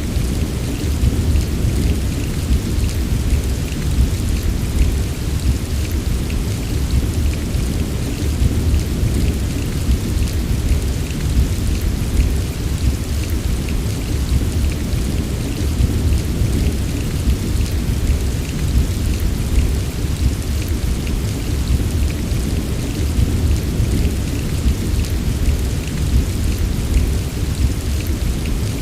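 Steady rain falling, with a continuous deep rumble underneath and small drop ticks scattered throughout.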